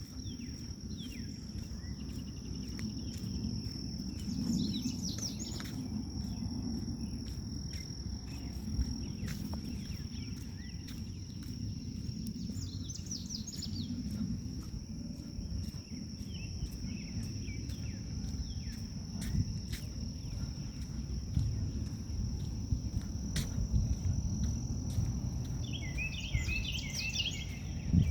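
A steady high-pitched trill of insects in the grass, crickets by their sound, with short bird chirps breaking in three times, the busiest near the end. Underneath runs a low, rough rumble of wind on the microphone, with light scattered clicks.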